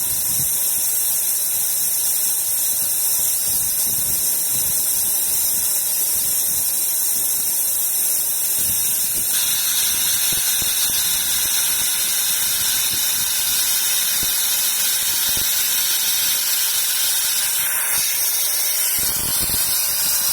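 Glass laser drilling machine running with a steady, loud hiss, changing slightly in tone twice.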